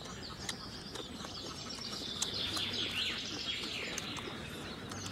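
Small birds chirping: many short, high calls that slide down in pitch, busiest in the middle, with a few faint clicks.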